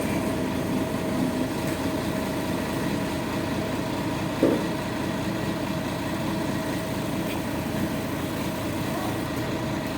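Dump truck engine idling steadily, with one short knock about four and a half seconds in.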